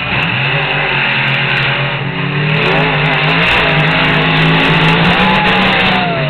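Monster truck engines at full throttle in a side-by-side race, their pitch climbing just after the start and shifting about two and a half seconds in. A falling whine comes near the end.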